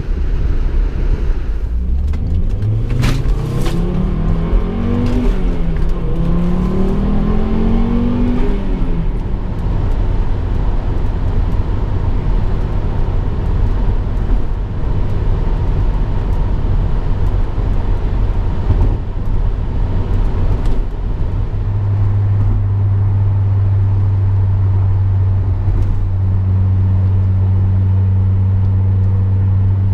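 Volvo V70 R's turbocharged five-cylinder engine and exhaust under acceleration: the pitch rises steeply twice, with a drop between, in the first several seconds as it pulls up through a gear change. A sharp click comes about three seconds in. From about two-thirds of the way through the engine settles into a steady, even drone.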